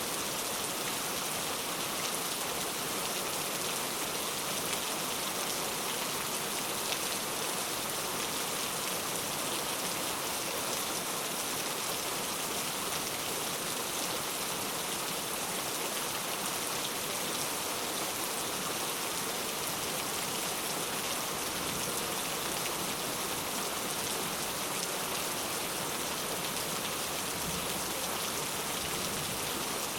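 Steady rain falling, an even hiss of many drops on a surface, with no lulls or thunder.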